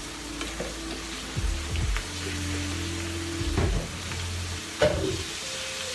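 Chicken pieces deep-frying in hot cooking oil: a steady sizzle, with a few sharp clicks, the strongest near the end.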